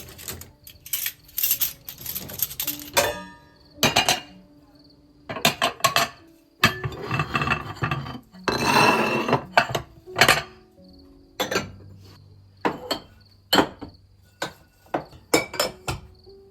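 Kitchen clatter: dishes, glass and cutlery clinking and knocking in a string of separate strikes, with a longer scraping, rustling stretch about seven seconds in.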